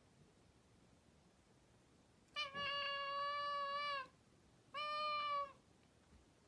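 A cat meowing twice: one long, steady meow, then a shorter one after a brief pause.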